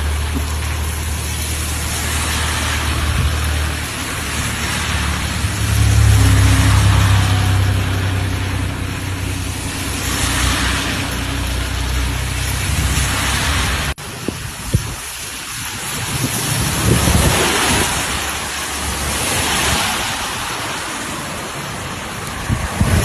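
Rushing of rain-fed floodwater in a wadi, swelling and easing every few seconds, over a low rumble during the first half. The sound changes abruptly at a cut about 14 seconds in.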